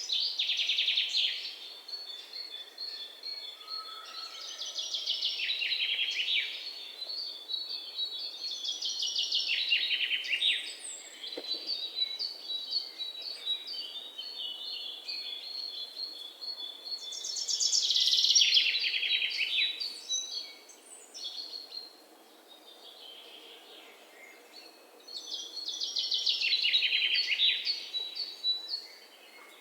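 Birdsong: a loud trilling phrase about two seconds long, falling in pitch, repeats every few seconds, with thin high chirps between the phrases.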